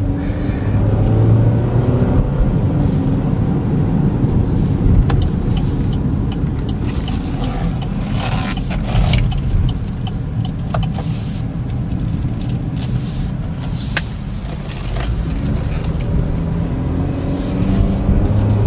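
Cabin noise of a 2013 Chevy Equinox with a 2.4-litre four-cylinder cruising at about 45–50 mph: a steady low rumble of engine and tyres on the road, with short bursts of high hiss and a few light ticks.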